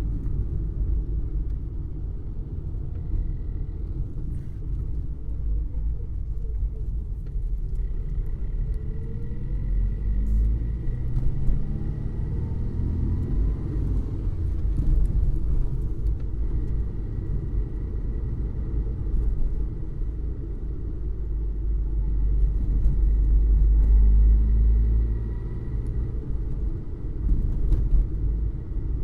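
Ford Fiesta engine running while the car is driven: a steady low rumble whose engine note rises slowly twice, once about a quarter of the way in and again late on, as the car accelerates.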